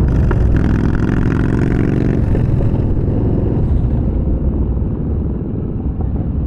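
Yamaha Bolt's air-cooled V-twin engine under way, rising in pitch as it accelerates for the first couple of seconds, then running steadily.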